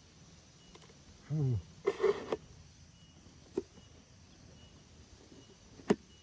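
Handling noise: a brief rustle about two seconds in, then two sharp clicks, one near the middle and a louder one near the end, over a faint outdoor background.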